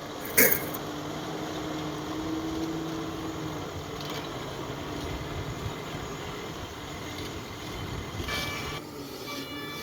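Diesel engine of heavy earthmoving machinery running steadily, with one sharp knock about half a second in. A pitched beeping starts near the end.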